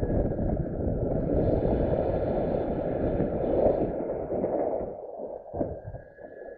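Wind buffeting the microphone: a loud, gusty rumble that dies down about five seconds in, with a faint steady high whine behind it.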